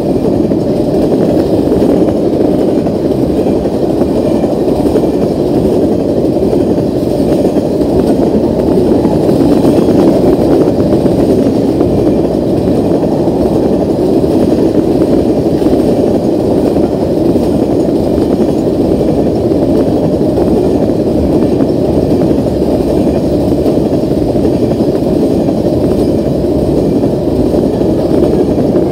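Freight train of tank cars rolling past close by: a steady, loud rumble and rush of steel wheels on the rails.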